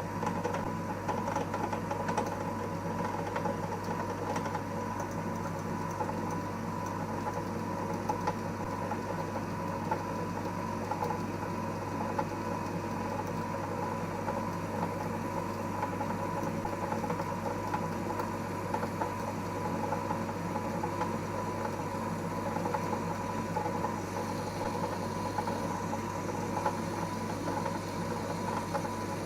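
EMCO Compact 5 PC benchtop lathe running steadily, its spindle drive giving a constant hum and whine with a fine scatter of small ticks, while the tool takes a facing cut on the workpiece.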